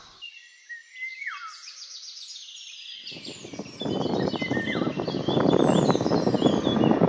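Birds chirping and trilling. About three seconds in, the rumble of an electric locomotive and its passenger coaches rolling along the rails sets in and grows louder as the train approaches, with the birds still heard above it.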